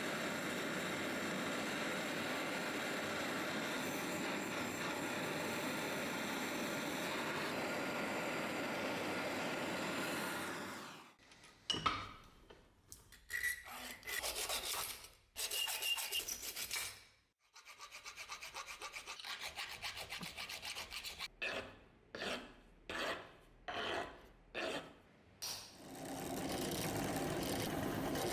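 Hand filing or abrasive rubbing on a workpiece. It is a steady scraping for about ten seconds, then after a short pause a run of separate short strokes, and steady scraping again near the end.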